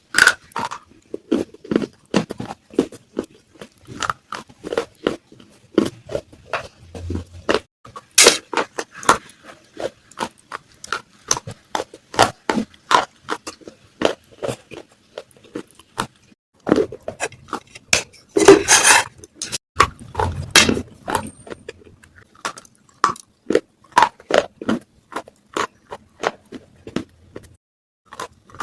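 Close-miked crunching of baked clay (matka pot) pieces being bitten and chewed: a run of sharp, brittle cracks several times a second, with a denser, louder burst of crunching about two-thirds of the way through.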